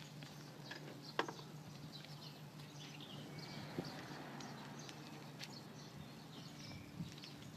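Birds chirping in short, high calls over a steady low hum, with a sharp click about a second in.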